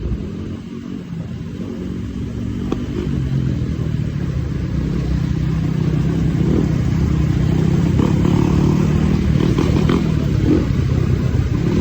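250cc motocross bike engine running, growing louder over the first few seconds and then holding a steady note.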